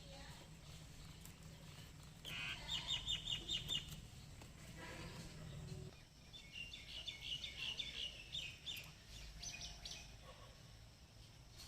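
A bird singing: two runs of quick repeated high chirps, about four notes a second, the first lasting about a second and a half and the second, a few seconds later, about two and a half seconds.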